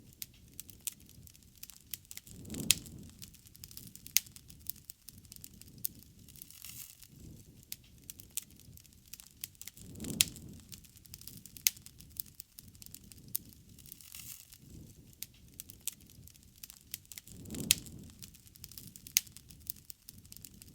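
Wood bonfire crackling, with many irregular sharp pops and snaps. A low, soft swell rises three times, about seven seconds apart.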